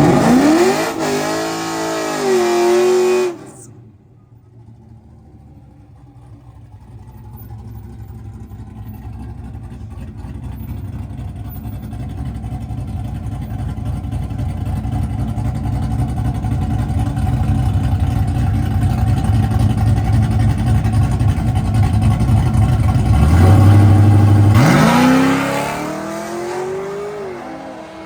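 Drag cars accelerating hard down the strip, engine pitch climbing and stepping through gear changes. The first run cuts off abruptly a few seconds in; engine noise then builds steadily for about twenty seconds before another car launches with a loud rising engine note that fades near the end.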